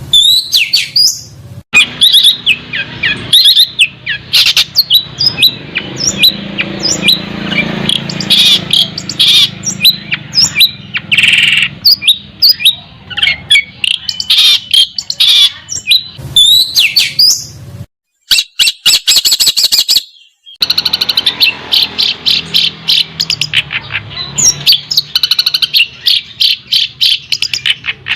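Songbird singing a loud, fast, varied song of chirps, sweeping whistles and rattling phrases, of the kind used as 'masteran' tutor song for competition songbirds. A little past halfway the song breaks off briefly, then resumes as a rapid run of evenly repeated notes.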